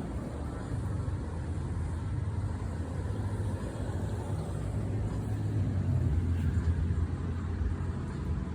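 Low rumble of a motor vehicle, building to its loudest about six to seven seconds in and then easing off.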